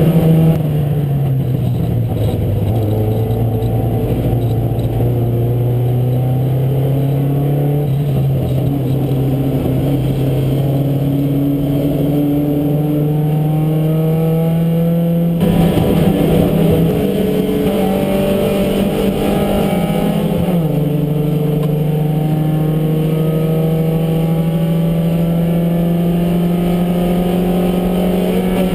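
Porsche 924 race car's four-cylinder engine heard from inside the cockpit under racing load. Its pitch falls as the car slows near the start, stays low and steady through a long stretch, changes abruptly about halfway through, dips briefly about two-thirds in, then climbs steadily as the car accelerates.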